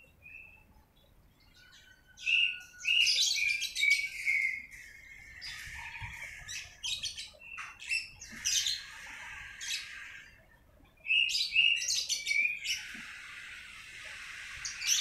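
Small birds chirping and twittering in bursts of quick, high calls, with short quieter gaps near the start and about ten seconds in.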